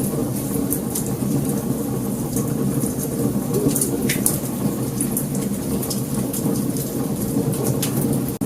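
Wood fire burning: many sharp crackles and pops scattered over a steady low rumble of the flames.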